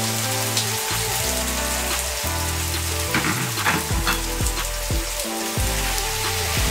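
Stir-fry vegetables in oyster sauce sizzling in a hot wok, with a few short knocks a little past three seconds. Background music with low held notes plays under the sizzle.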